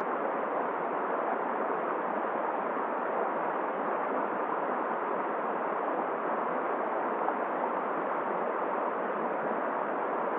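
Steady, even rush of flowing river water and wind, with no gusts, breaks or separate events.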